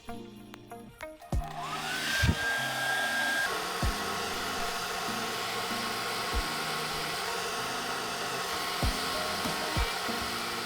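A small electric motor appliance is switched on about two seconds in: its whine rises briefly as it spins up, then it runs steadily with a whooshing noise, over background music with a steady beat.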